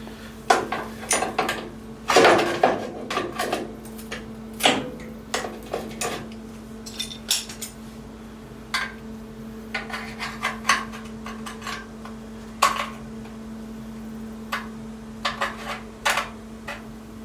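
Metal hand tools clinking and clanking irregularly, as of rummaging for and handling vice grips, over a steady low hum.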